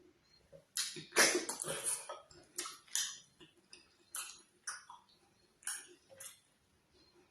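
Close-miked wet mouth sounds of eating fufu with slimy ogbono soup: a dense cluster of smacks and sticky chewing about a second in, then separate smacks every half second or so.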